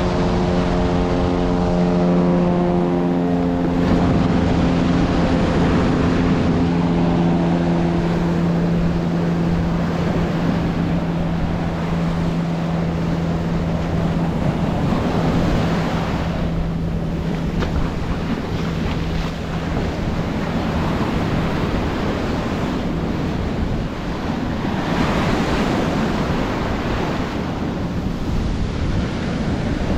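Ocean surf washing onto the shore, with wind buffeting the microphone. Under it a steady low engine drone fades away by about two-thirds of the way through.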